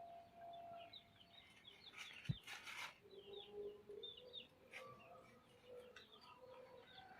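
Faint chirping and twittering of small birds, with lower drawn-out calls from chickens foraging. A single sharp knock comes about two seconds in, followed by a short rustle.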